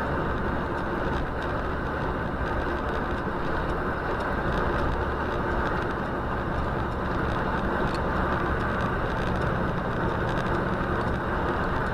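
Steady car engine and road noise from a vehicle driving along, with no impacts or distinct events.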